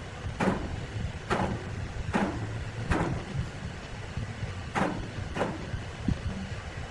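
Sawmill machinery running with a steady low rumble, with a series of sharp knocks, about one a second at first and then a pair a little after the middle.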